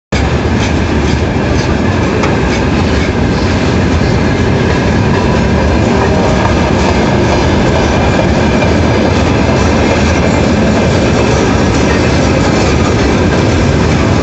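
Passenger train hauled by a ChS7 electric locomotive rolling in as it arrives. Its wheels clack over the rail joints under a steady, loud rolling rumble.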